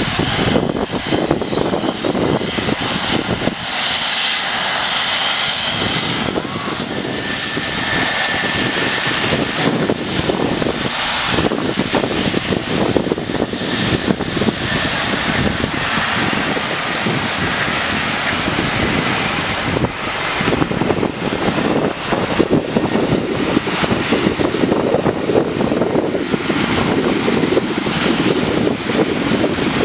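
Trauma helicopter running loud and steady: rotor and turbine noise, with a thin high whine showing through near the middle.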